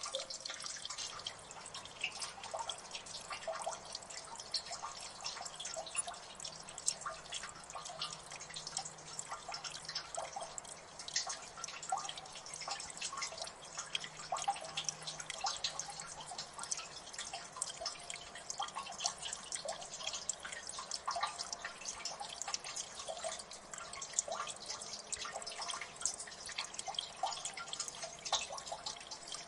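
Water dripping in a gully: many irregular drips falling fast and overlapping, with small plinks over a faint steady wash of water.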